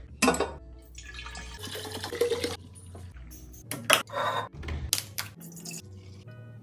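Liquid pouring briefly into a container, among several sharp knocks and clinks of containers being handled.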